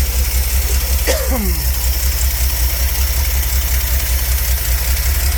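Ford 300 cubic inch (4.9 L) inline-six engine idling steadily with an even low rumble. A person makes a brief falling vocal sound about a second in.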